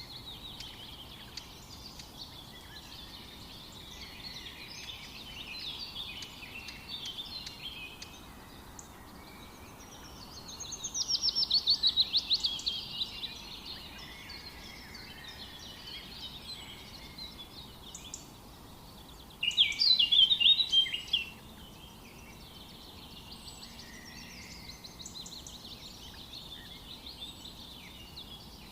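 Several songbirds singing in overlapping chorus over a faint steady background hiss. A loud, fast trill comes about ten seconds in, and another loud burst of song about twenty seconds in.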